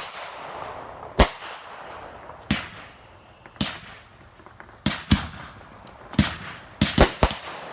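Fireworks linked by a fuse going off one after another: about nine sharp bangs roughly a second apart, coming quicker near the end, with hissing between them.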